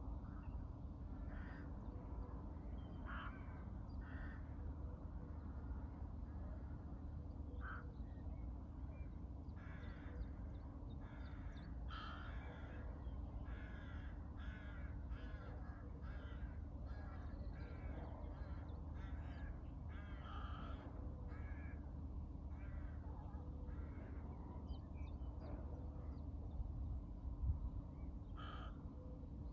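Crows cawing repeatedly, short calls coming in clusters throughout, over a steady low background hum.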